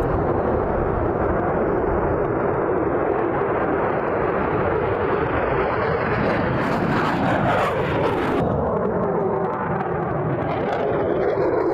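F-22 Raptor's twin turbofan jet engines running loud and steady in a dense rush of jet noise. Past the middle, the pitch of the engine whine slides downward as the jet passes by.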